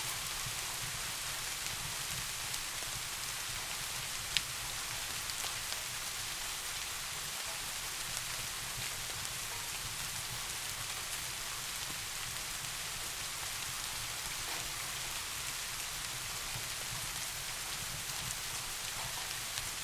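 Steady rain falling, an even hiss with a single sharper drop tick about four seconds in.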